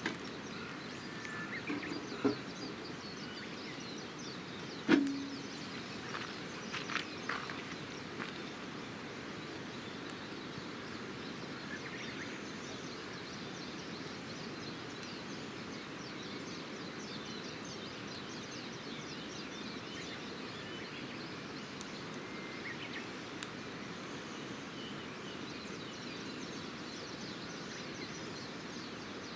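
Campfire with a few sharp snaps and knocks in the first eight seconds, the loudest about five seconds in, over a steady outdoor rushing background; faint bird chirps here and there later.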